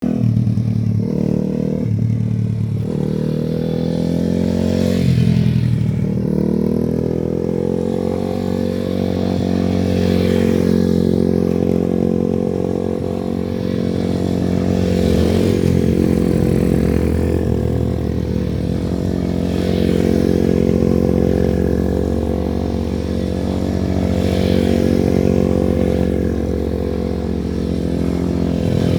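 MRF 140 SM pit bike's single-cylinder four-stroke engine running under load, revving up and down in the first few seconds, then held at a fairly steady pitch. The sound swells and fades about every five seconds.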